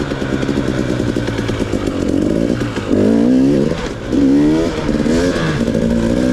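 Two-stroke dirt bike engine under way, revving up and easing off; its pitch climbs twice, about three and four seconds in, with a brief drop between.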